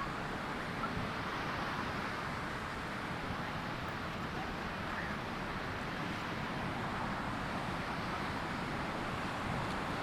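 Ocean surf washing onto a sandy beach: a continuous, even rushing hiss with no single wave standing out, mixed with wind.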